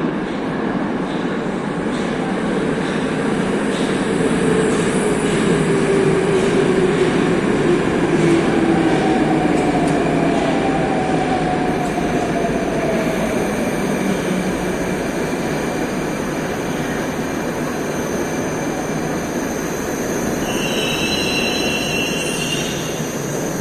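Moscow Metro train running along the platform and slowing: a loud rumbling roar with a motor whine that falls in pitch as it brakes. A high-pitched squeal rises near the end.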